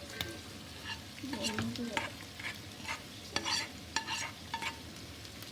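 A spatula stirring and scraping through a pan of chicken, capsicum and onion frying on high heat, with irregular scrapes over a steady sizzle.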